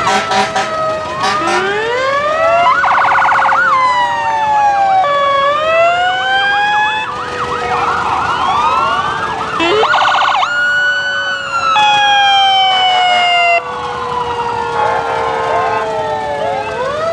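Several fire-truck sirens sounding at once, overlapping rising and falling wails with bursts of rapid yelping, over long tones that slowly fall in pitch.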